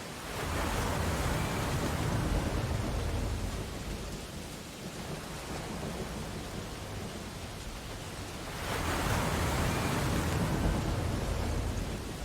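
Ocean waves breaking on a beach: two waves surge in, one about half a second in and another near the end, each washing for a few seconds, with a steady hiss of surf between them.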